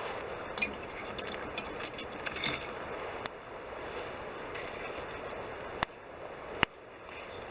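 Wood campfire crackling over a steady rushing hiss, with a cluster of small snaps in the first few seconds and two sharp pops in the second half.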